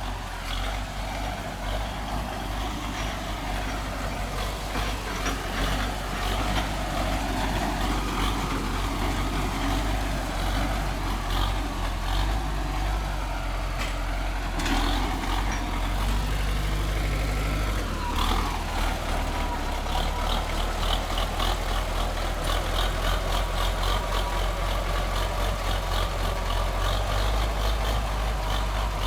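DT-75 crawler tractor's diesel engine running steadily under load, its note falling and then climbing again past the middle. In the last third a rapid, even clatter runs over the engine.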